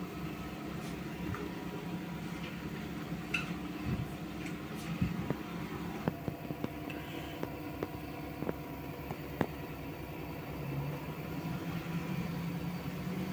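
LG F2T9GW9P direct-drive washing machine running its spin cycle: a steady motor hum with several tones, broken by scattered short knocks.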